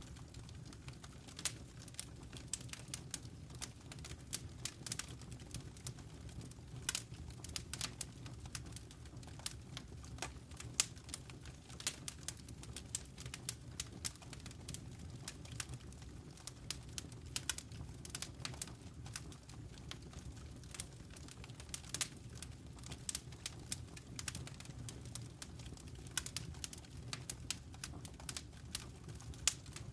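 Fireplace fire crackling: many irregular sharp snaps and pops over a steady low rumble of the flames.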